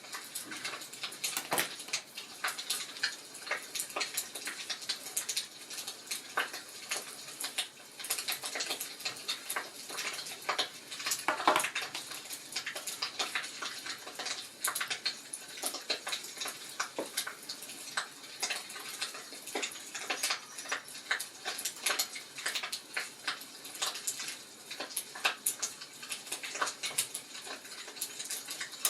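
Wood fire crackling in a fireplace: a dense, irregular run of sharp pops and snaps over a soft hiss, with one louder pop about halfway through.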